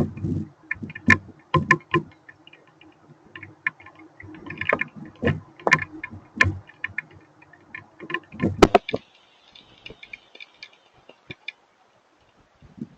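Scattered hailstones and raindrops striking nearby surfaces in irregular sharp ticks and taps, over a faint steady low hum.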